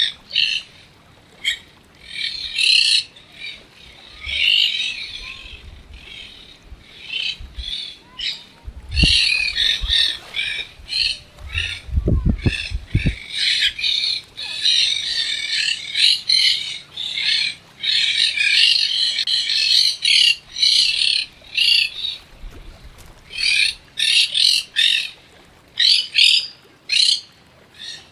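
Birds, parrots among them, chattering and squawking in rapid bursts of high calls with short pauses between. A couple of low thumps come about nine and twelve seconds in.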